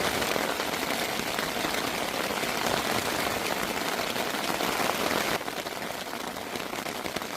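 Heavy rain pattering densely and steadily on the fabric of a Hilleberg Soulo tent, heard from inside the tent; it eases slightly about five seconds in.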